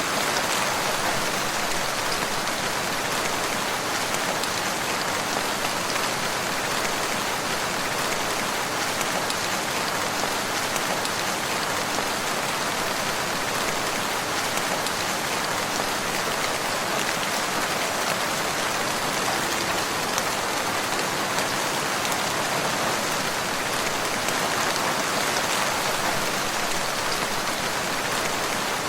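Steady rain falling, an even hiss of many drops on surfaces with no break or change.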